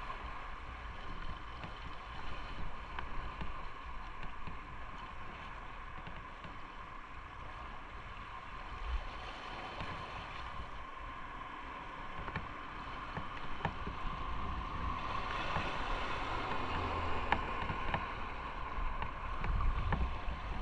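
Motorcycle on the move: steady engine and road noise with wind buffeting the microphone, growing somewhat louder over the last few seconds.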